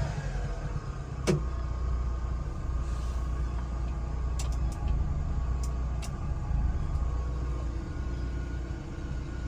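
Subaru Sambar kei truck's small 658 cc four-cylinder engine idling steadily, with a sharp click about a second in and a few faint clicks in the middle.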